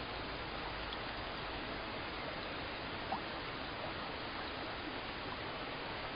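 Steady rain, an even hiss with a few faint drop ticks, one a little louder about three seconds in.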